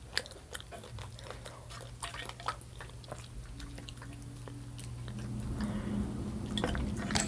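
Close-miked chewing and biting, with small wet clicks of the mouth, over a low steady hum that comes in about a second in; the sound grows louder toward the end.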